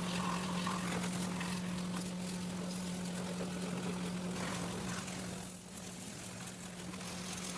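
A motor running steadily, a constant even hum with a hiss over it.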